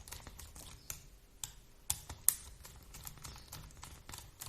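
Light, irregular clicks and taps of a small screwdriver and tiny screws on the plastic chassis of a 1/16 RC drift car, as the front differential screws are taken out. Two sharper clicks stand out about two seconds in.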